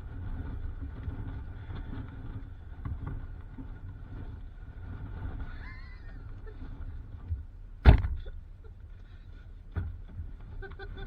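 Low, steady rumble of a car on the move, heard from inside, with one sharp knock about eight seconds in.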